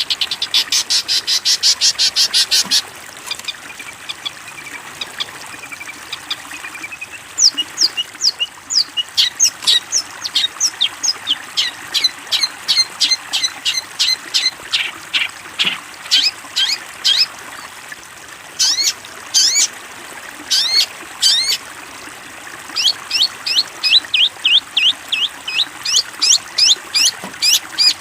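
Long-tailed shrike singing a loud, busy song. It opens with a fast rattling trill that stops about three seconds in. After a short lull come repeated runs of sharp, quick, falling high notes, several a second.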